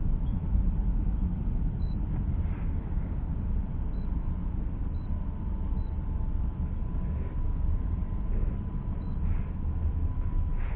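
Steady low rumble of a vehicle on the move, with a faint steady tone above it.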